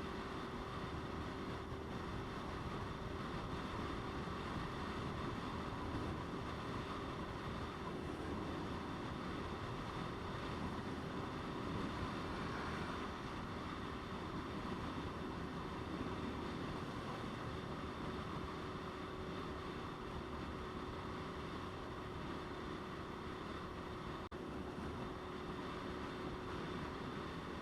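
Motorcycle riding at a steady cruise: the engine holds one constant note under a steady rush of wind noise.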